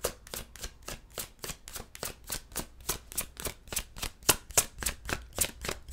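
A deck of tarot cards being shuffled by hand: a steady run of short card slaps, about four to five a second.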